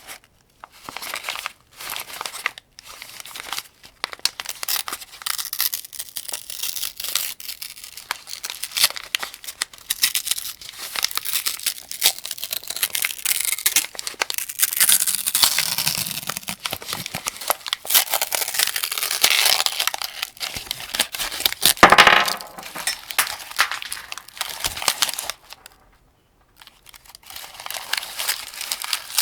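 7.62×39 cartridges being pushed one by one into a 75-round AK-47 drum magazine: a dense run of small metallic clicks and rattles from the rounds and the drum's feed. There is one louder clack about 22 seconds in and a brief pause a few seconds later.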